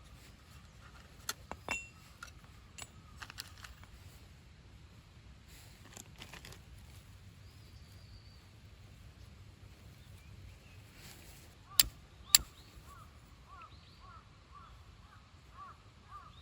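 Scattered crackles and two sharp pops from a campfire. Partway through, an animal starts a quick run of short repeated calls, about three a second.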